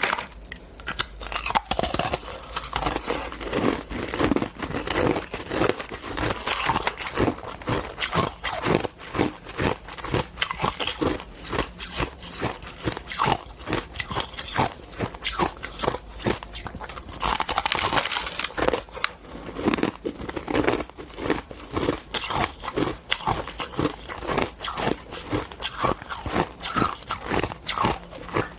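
A person biting and chewing ice, a continuous run of rapid, crackling crunches close to the microphone.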